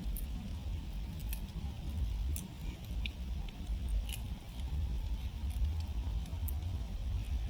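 Wood campfire crackling, with sharp pops scattered every second or so over a steady low rumble.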